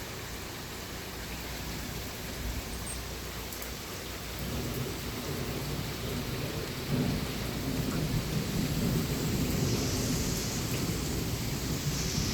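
Steady rain with a long rolling rumble of thunder that builds about four seconds in and grows louder toward the end.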